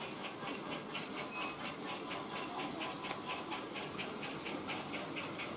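Digital sound decoder in a model steam locomotive playing a steady, rapid chuff, about six beats a second, over a soft steam hiss.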